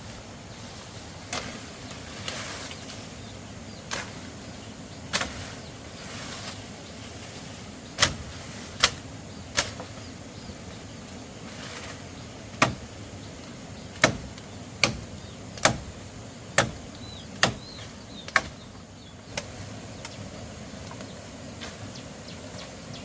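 A series of sharp knocks or blows, irregularly spaced at first, then a run of six at about one a second in the second half, over a steady background hiss.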